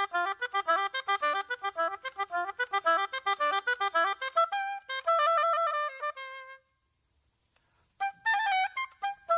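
Music: a single melodic instrument plays a fast run of quick notes, slows to a few longer held notes, stops for about a second and a half, then starts another short phrase near the end.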